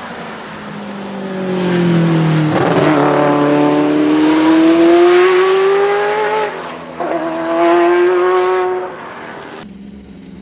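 Ferrari F40's twin-turbo V8 at full throttle, climbing in pitch through the gears with two quick upshifts. In the last second it cuts abruptly to a different, quieter engine idling.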